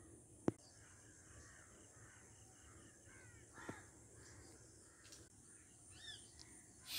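Faint bird calls: a few short arched calls about three seconds in and again near the end. A sharp click comes about half a second in.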